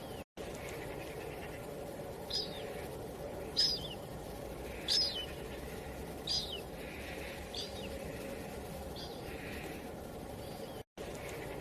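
A small bird calling again and again with short, high chirps that slide downward, about one every second and a half, over a steady low wind noise. The sound cuts out completely for a moment twice, once just after the start and once near the end.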